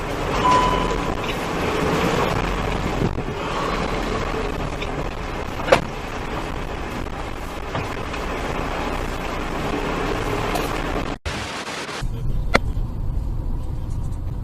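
Car on the road recorded by a dashcam: a steady wash of road and engine noise with a single sharp knock about halfway through. Near the end the sound cuts out briefly and gives way to a quieter low engine rumble.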